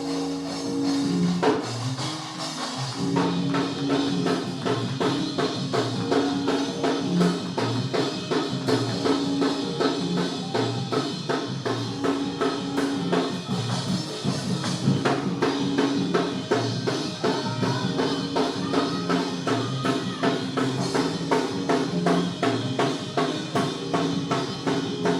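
Church band playing an upbeat praise break: a drum kit with snare and bass drum keeps a fast, driving beat over held chords and a stepping bass line. The drums come in fully about three seconds in.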